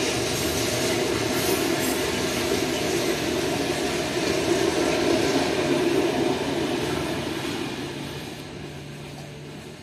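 Freight train of tank wagons rolling across a level crossing, a steady rumble and rattle of wheels on rail that fades over the last three seconds as the end of the train passes.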